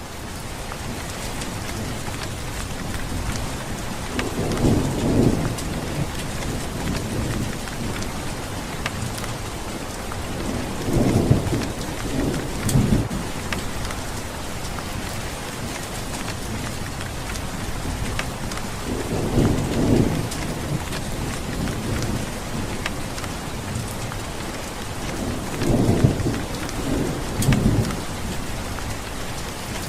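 Steady rain falling, with thunder rumbling low four times, each roll lasting a couple of seconds.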